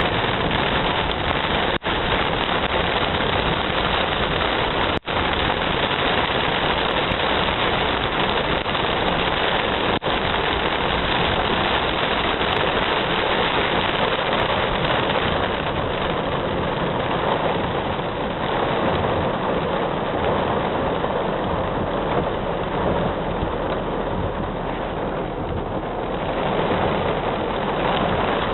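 Heavy rain falling, a loud steady hiss, with two brief dropouts in the first few seconds.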